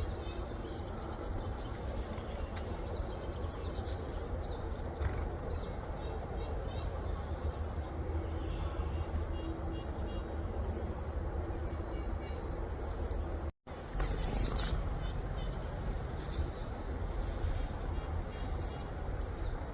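Small songbirds chirping with short, high calls scattered throughout, over a steady low rumble. The sound cuts out for an instant about two-thirds of the way through.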